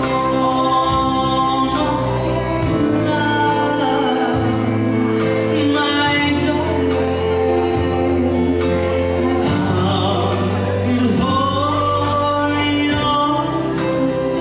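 Live stage-show music: several voices singing long held notes in harmony over a band with a steady beat.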